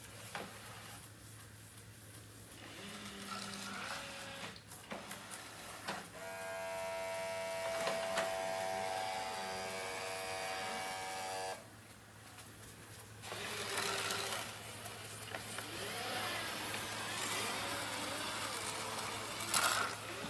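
Dreame D20 Pro Plus robot vacuum's motor running. A steady whine sets in about six seconds in and cuts off abruptly near the middle, followed by a noisier mechanical hum.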